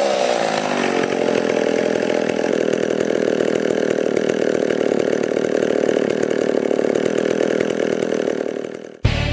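McCulloch Power Mac PM605AV-20 55cc two-stroke chainsaw engine settling from a higher speed down to a steady idle in the first second. It keeps idling, then dies away shortly before the end.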